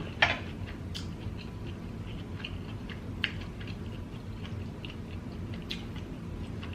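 A person chewing spicy seafood close to the microphone, with wet mouth smacks. A sharp click just after the start is the loudest sound, and soft clicks follow every second or so.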